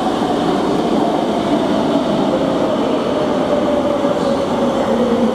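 A rail vehicle running: a steady loud rumble with a whine that drifts slightly lower in pitch.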